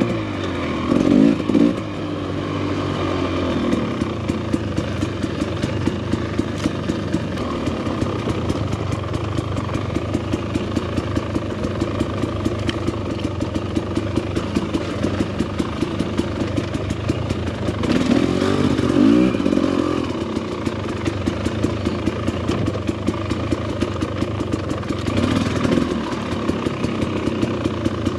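Dirt bike engine running as the bike is ridden, the revs swinging up and down about a second in, again around eighteen seconds and near twenty-five seconds.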